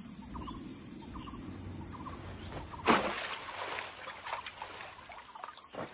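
A bird calling over and over, a short three-note call about once a second, with a low rumble under it in the first half. About three seconds in, a sudden loud rushing noise fades away over about a second, and a few sharp clicks follow.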